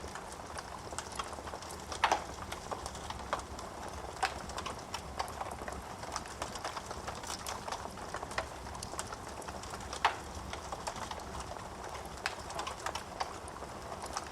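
Wood fire in a fireplace crackling, dense small snaps over a low hiss of flames, with louder pops about two seconds in and again about ten seconds in.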